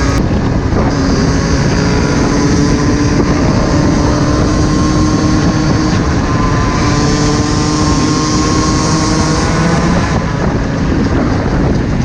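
Small-displacement dirt bike engine running at a steady pace on the move, its pitch wavering a little, with wind rushing over the microphone.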